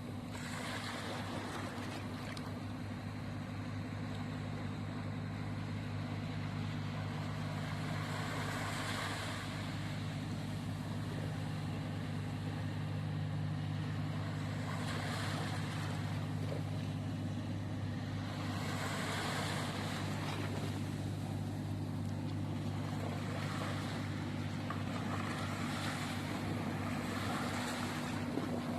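Motor fishing boat's engine running at a steady hum, with sea water washing against the hull now and then.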